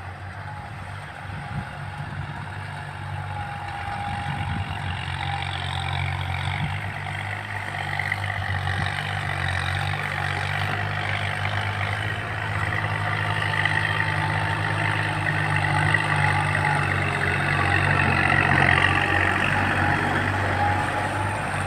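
Kubota tractor engine running steadily under load while rotary-tilling a wet rice paddy, growing louder over the stretch as it comes closer.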